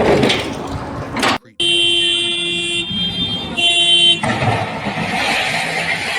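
A vehicle horn sounding as one steady tone for about two and a half seconds, thinning briefly in the middle, between stretches of loud noise; it starts right after a sudden cut.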